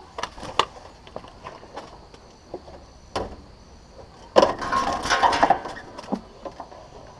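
Several sharp knocks and clicks on a pool heater's metal housing, then a loud burst of scrabbling and rattling lasting about a second, as a blue jay trapped inside is being freed.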